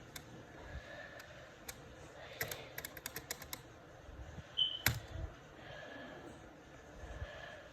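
Faint light clicks and taps, a quick run of them in the middle, then one sharper click.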